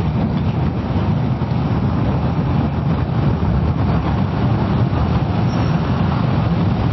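Steady wind and road rush on a Kawasaki ER-6f motorcycle riding at speed in the wet, heaviest in the low end and unbroken throughout.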